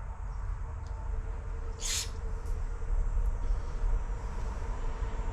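A short hiss about two seconds in, like a brief squirt of spray or air while carburetor parts are being cleaned, over a steady low hum with a faint whine.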